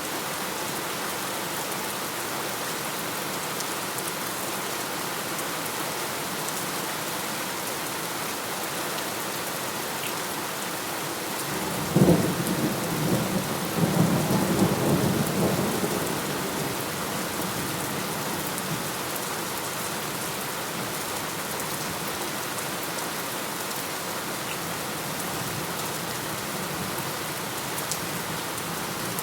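Steady rain falling, with one thunderclap about twelve seconds in that starts sharply and rumbles for about four seconds before fading back under the rain.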